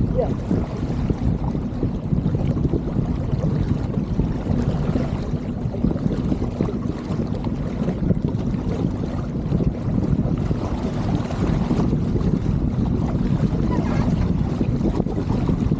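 Wind buffeting the microphone over the rush of water along a sailboat's hull: a steady low rumble with no distinct events.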